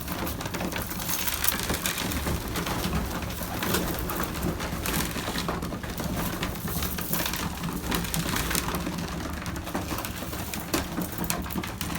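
A flock of racing pigeons cooing in a loft while they feed, with a dense patter of quick clicks from beaks pecking at grain.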